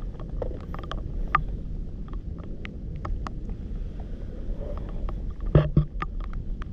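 Scattered small clicks and knocks over a steady low rumble of wind on the microphone, with one louder knock about five and a half seconds in.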